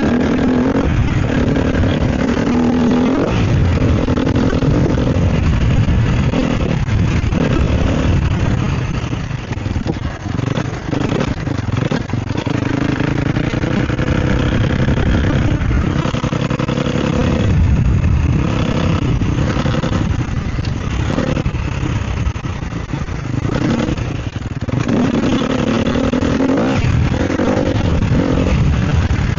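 Sherco SEF 250 four-stroke single-cylinder dirt bike engine ridden off-road, revving up and easing off again and again as the throttle is worked, with a few brief drops when the throttle is rolled off.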